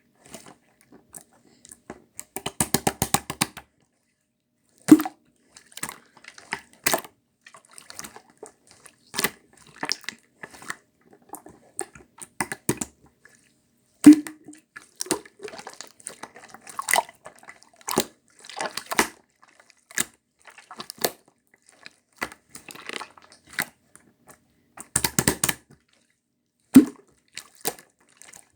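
Slime being squished and pressed by hand, making irregular wet clicks and pops, with quick runs of crackling clicks a few seconds in and near the end.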